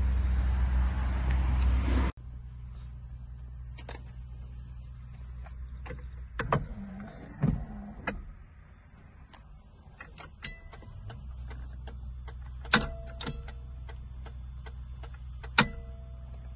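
Porsche 930 Turbo's 3.3-litre flat-six running steadily, then cut off abruptly about two seconds in. After that come scattered quiet clicks and knocks as the ignition key and switches are handled in the cabin, over a faint low hum, with the engine not yet started.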